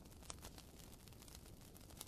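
Near silence: a faint low hum with a scatter of small soft clicks, like crackle.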